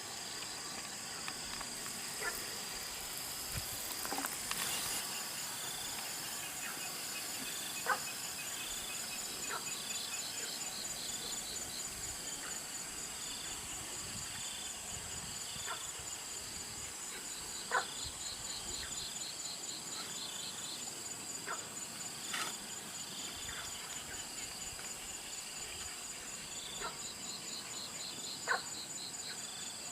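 Insects trilling steadily: one high continuous note, and a lower pulsing trill that starts and stops in runs. A few short sharp knocks are scattered through.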